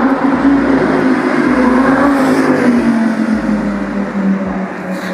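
A car engine running close by, its note rising and falling as it revs, then settling lower toward the end.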